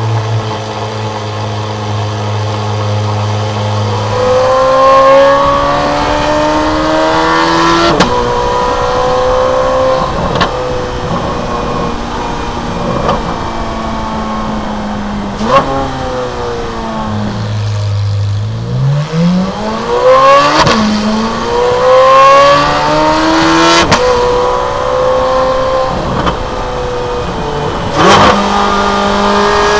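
Chevrolet Corvette C8 Z06's 5.5-litre flat-plane-crank V8, breathing through a Fabspeed valved titanium exhaust with high-flow cats, holds a steady idle for about four seconds. It then pulls away and revs up through the gears, its pitch rising and dropping sharply at each of several shifts. Around the middle the revs fall away as it slows, then climb again under acceleration.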